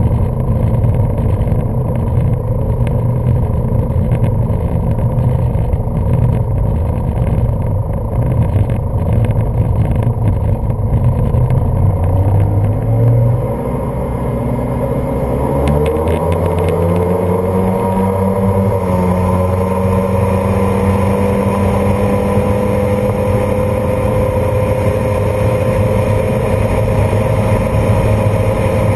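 1995 Sea-Doo Speedster jet boat's twin two-stroke engines running under way, mixed with rushing water. About halfway through the engines ease off briefly, then rev up with a rising pitch and hold steady at a higher pitch.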